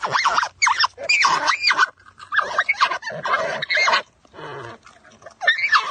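An animal vocalising in a run of short calls that bend up and down in pitch, with brief pauses between them.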